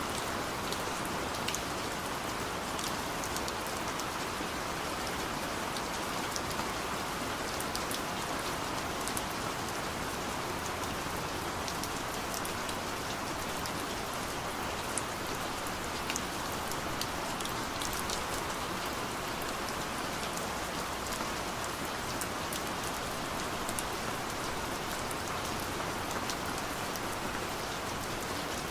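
Steady rain falling on a car, heard from inside the cabin, with scattered sharper drop ticks over an even hiss.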